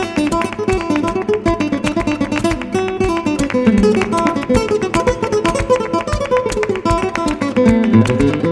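Background music: fast flamenco-style acoustic guitar, quick plucked runs and strums.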